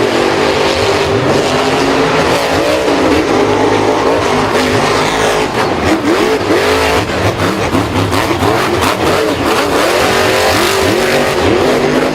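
Several vehicle engines revving at once, their pitch rising and falling over and over.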